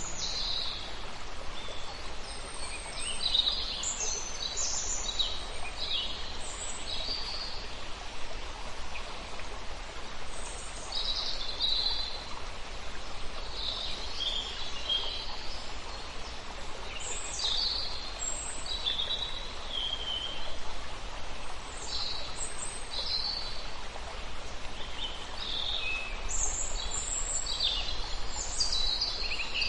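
Many small songbirds chirping and calling in short high notes over a steady rush of running water.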